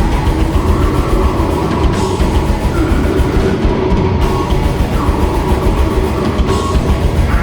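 Live grindcore/powerviolence band playing: fast, pounding drums under heavily distorted guitars and bass, dense and loud throughout.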